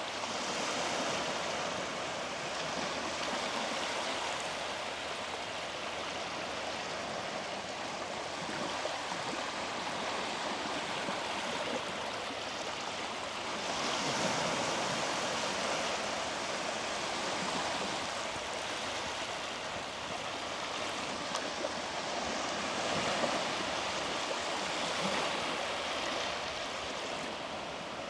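Sea waves washing onto a beach: a steady rush that swells briefly a few times, about a second in, around halfway and near the end.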